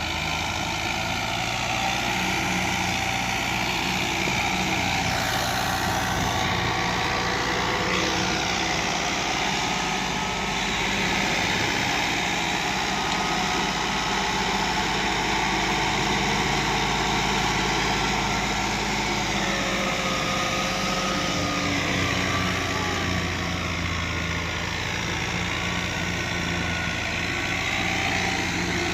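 A vehicle engine running steadily, with only small shifts in pitch.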